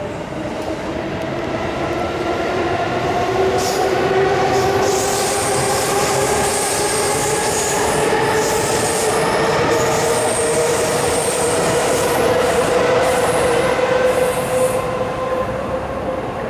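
Keihin-Tohoku Line electric commuter train passing close by. Its traction motors whine in several tones that slowly rise in pitch as it gathers speed, over steady rail and wheel noise, with high-pitched wheel squeal through the middle of the pass.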